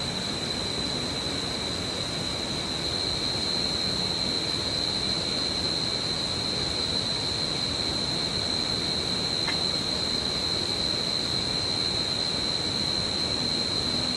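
Insects droning steadily at one high, unchanging pitch over an even background hiss.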